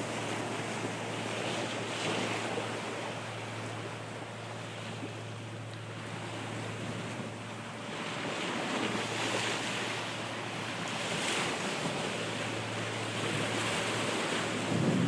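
Wind buffeting the microphone over the rush of sea water on a sailboat, swelling and easing every few seconds, with a steady low hum underneath.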